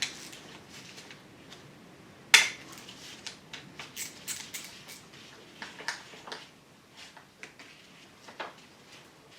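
Metal clicks and light taps of a throttle cable being unhooked from the engine: one sharp click about two seconds in, then a string of smaller irregular clicks.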